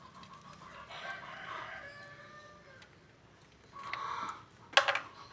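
A rooster crowing: one long call about a second in, then a shorter call near four seconds, and a sharp click just before the end.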